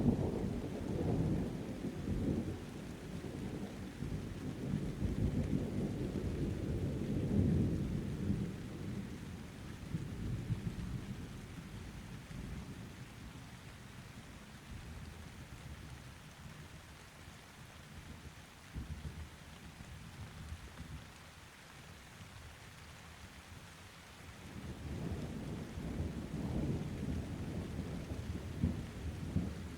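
Thunderstorm: low, distant thunder rumbling over steady rain. The roll fades away after about ten seconds, leaving the rain alone, and a fresh roll of thunder builds near the end.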